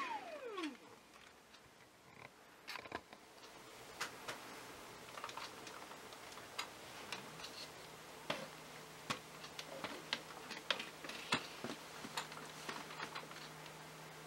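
Dyson V6 cordless handheld vacuum's motor whining down in pitch as the trigger is released, then faint scattered plastic clicks and taps as the clear dust bin and cyclone are fitted back onto the body. A faint steady low hum comes in about halfway.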